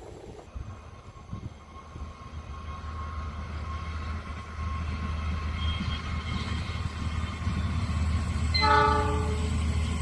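Approaching train, its low rumble growing steadily louder, with one short locomotive horn blast near the end.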